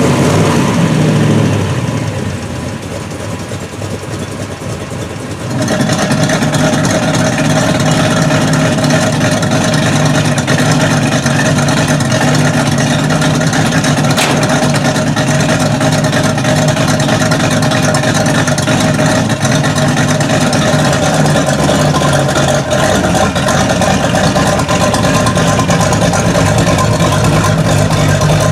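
A vehicle engine running at a steady speed. The sound drops in level about a second and a half in and comes back up about five and a half seconds in.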